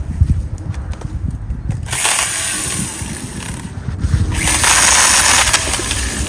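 Camera handling as it is carried around the tree: low thuds and rumble, then two long stretches of loud rustling hiss in the second half.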